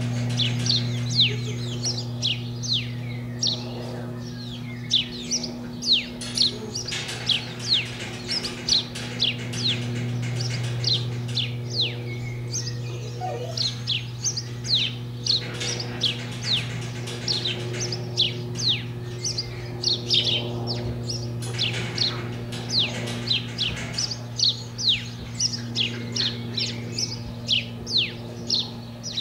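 Small birds chirping repeatedly, short quick falling chirps about one or two a second, over a steady low hum.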